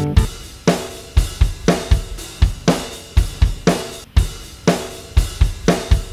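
Background music: a drum kit playing a steady beat, with kick drum, snare and cymbal hits and no other instrument.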